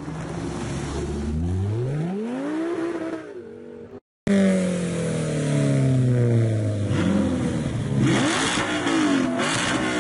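Stationary sports car engine revved: the pitch climbs and falls back, then after a short break a louder engine is blipped repeatedly, its revs dropping and rising several times.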